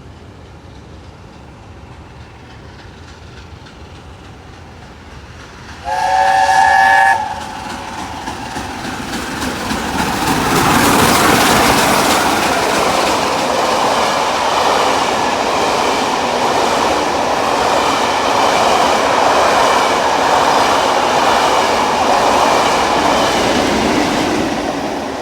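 Steam locomotive's chime whistle sounds once, a loud chord of several tones lasting about a second, from the LNER A4 60007 Sir Nigel Gresley. The train then passes close by, loud with the rattle and rush of the locomotive and coaches, building from about eight seconds in and easing off near the end.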